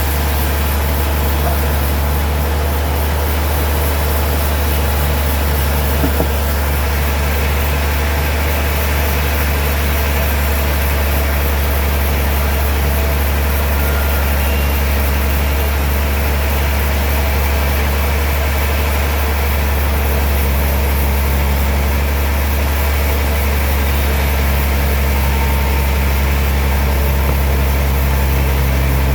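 Sawmill machinery running steadily with a loud, even low hum and no change in pitch, with one small knock about six seconds in.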